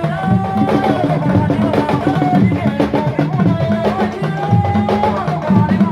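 Sabar drums playing a dense, fast rhythm of many strokes, with a wavering higher melody line running over it.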